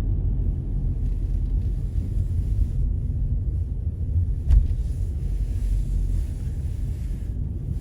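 Road and engine noise inside a moving car's cabin: a steady low rumble, with a single short knock about four and a half seconds in.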